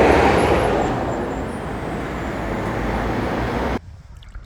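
Steady city street traffic noise, a rumble and hiss of passing vehicles, which cuts off suddenly near the end to a much quieter background with a few faint ticks.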